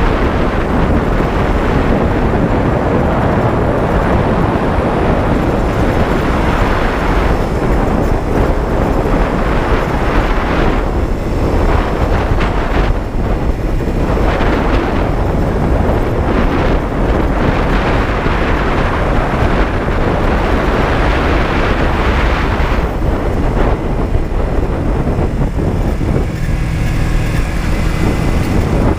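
Honda CB125T's small parallel-twin engine running under way, mixed with heavy wind rush over the microphone as the bike is ridden. Near the end the wind eases and the engine's low hum comes through more clearly.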